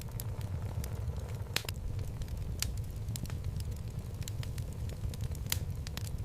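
Wood logs burning in a fireplace: a steady low rumble of the flames with scattered sharp crackles and pops, two louder pops about a second and a half in and near the end.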